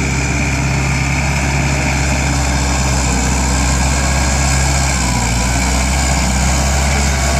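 ISEKI NT554 tractor's diesel engine running steadily at a constant pitch, with a deep, even drone.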